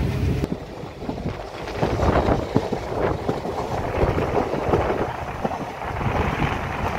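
Passenger train running, heard from an open coach window: wind buffeting the microphone over the rumble of the coaches on the track.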